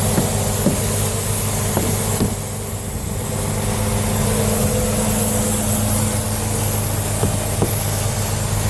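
Truck engine idling steadily, with a few brief knocks or clicks over it.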